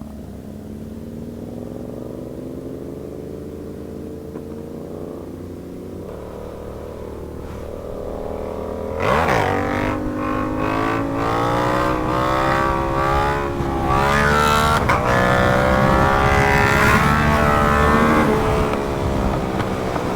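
Sportbike engines running steadily with the pitch slowly climbing. About nine seconds in there is a sudden swoop in pitch, and then they get louder, revving up and down as the bikes accelerate.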